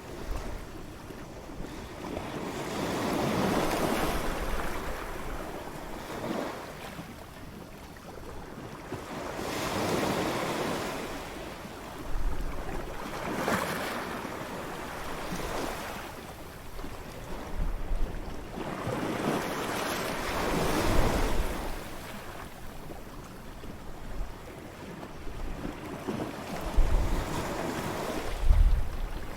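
Waves breaking on a beach, the surf swelling and washing back every six or seven seconds, with wind buffeting the microphone in low rumbling gusts.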